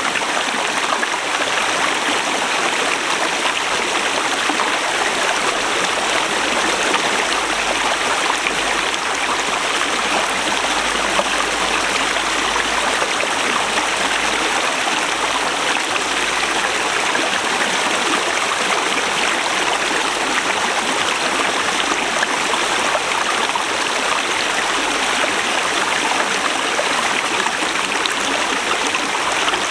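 Forest river rushing steadily over rocks: a continuous, even rush of flowing water.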